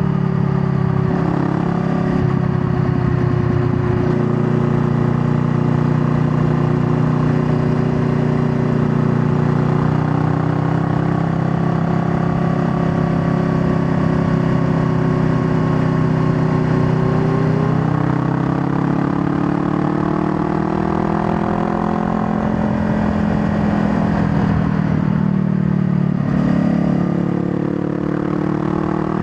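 Honda Rebel 500's 471 cc parallel-twin engine running under way, holding steady revs for a long stretch. Then the revs climb over a few seconds and fall back, with another step in pitch near the end.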